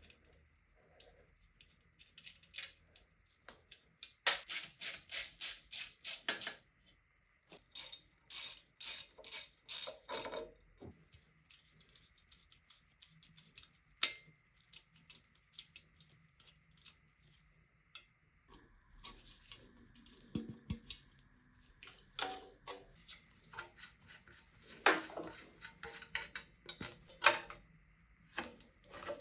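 Workshop sounds of bicycle parts and tools: two runs of rapid ratchet-like clicking and scattered light metallic clicks and clinks.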